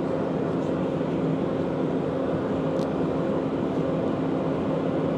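Engine running steadily at a constant speed, with an even hum and no change in pitch, and a faint click about three seconds in.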